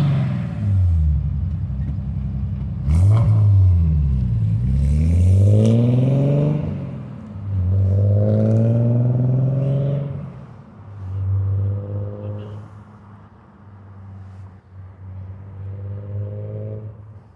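Nissan 300ZX's naturally aspirated VG30DE V6 through a custom aftermarket exhaust, revved several times with the pitch climbing and falling back; the longest rev is held from about a third of the way in until past halfway. It then drops to a steady idle with a couple of short blips near the end.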